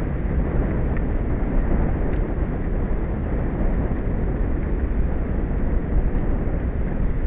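Steady low rumble of wind buffeting an outdoor microphone over the open sea, with a few faint clicks.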